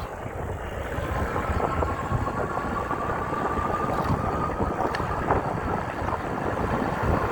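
Riding an e-bike on a wet road: wind buffeting the microphone over a steady road rumble, with a faint thin whine that rises slightly from about half a second in and fades around four seconds.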